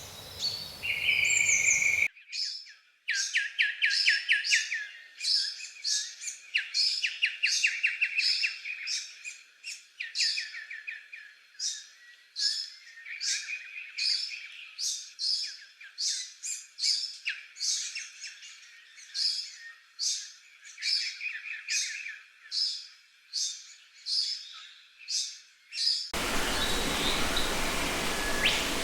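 Birds chirping and calling: one chirp repeated over and over, about one and a half times a second, over a rapid trill. At the start and again for the last few seconds, a steady rushing noise runs under the calls.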